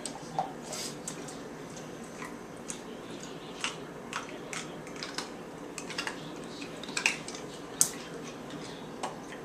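A dog playing in its water bowl with ice cubes: irregular clinks, taps and small splashes, about two a second.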